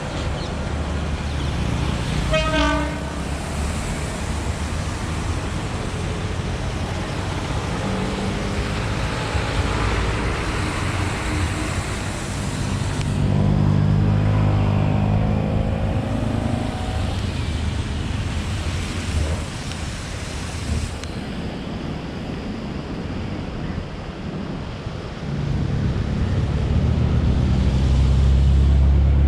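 Diesel locomotive engine running with a low rumble, with one short horn toot about two and a half seconds in. The engine grows louder in the middle and again near the end.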